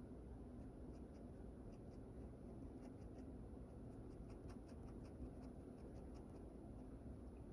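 Faint, irregular scratching strokes of a drawing tool on paper while sketching, over a steady low room hum.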